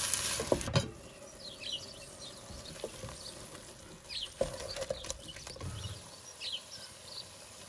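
Onion-tomato masala sizzling in hot oil in a stainless steel pot as a wooden spatula stirs it, ending in a knock about a second in. After that the frying drops low, faint bird chirps come and go, and a couple of light knocks sound.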